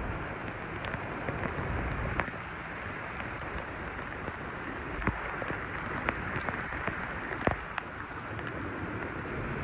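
Steady hiss of rain and tyres on a wet road from moving scooters, with scattered sharp ticks like raindrops striking close by.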